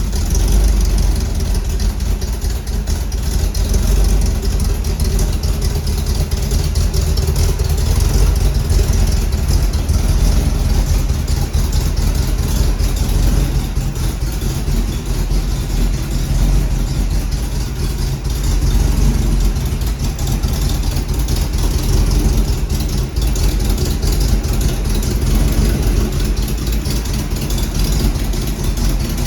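A 350 cubic-inch small-block Chevrolet V8 running steadily, its low engine note holding even with no sharp changes.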